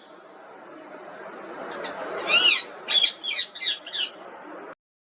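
Parrot calling: one drawn-out call that rises and falls, followed by four quick sharp notes, before the sound cuts off abruptly.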